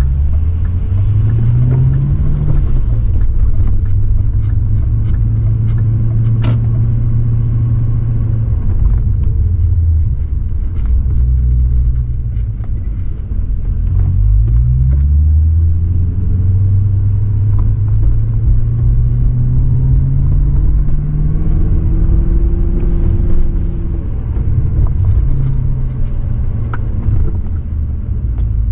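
2003 BMW 540i's V8 exhaust while driving. Revs climb briefly, hold steady, then die down about a third of the way through. They climb again in a long pull and ease off near the end.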